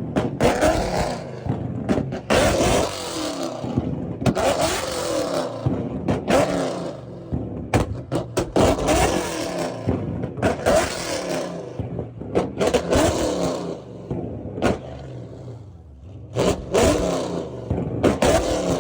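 Car engine revved hard again and again, about every two seconds, its pitch climbing and falling back with each blip of the throttle.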